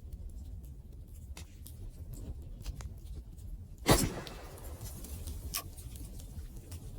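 Wood fire crackling, with scattered small snaps over a low rumble and one loud pop about four seconds in.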